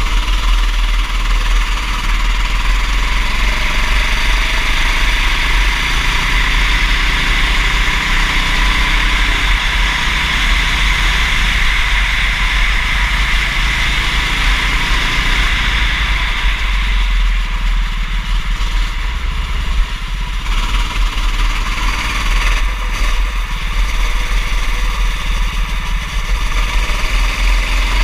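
Kart engine running at race pace, its pitch rising and falling as the driver accelerates and lifts, with a steady hiss and heavy low rumble on the microphone.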